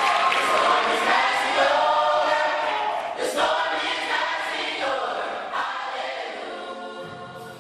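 Youth gospel choir singing in sustained phrases, the sound fading down steadily.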